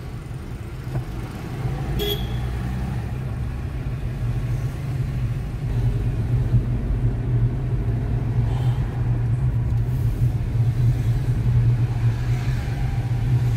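Tata Punch's three-cylinder petrol engine running as the car drives, heard from inside the cabin: a steady low drone that grows somewhat louder from about six seconds in. A single sharp click about two seconds in.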